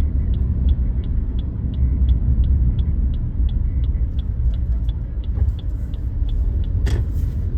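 Car cabin in slow traffic: the low rumble of the engine and road, with a steady ticking about three times a second that stops near the end. A single sharp knock comes about seven seconds in.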